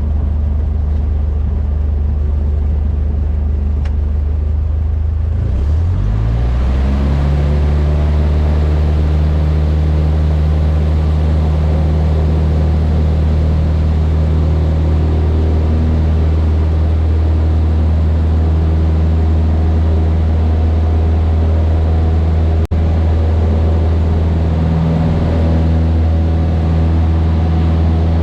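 Cessna 152's four-cylinder Lycoming O-235 engine and propeller droning steadily; about six seconds in the pitch rises as power is added, then holds at the higher setting.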